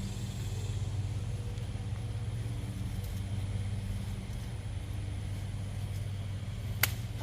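A steady low mechanical hum, like an engine or motor running nearby, with one sharp click near the end.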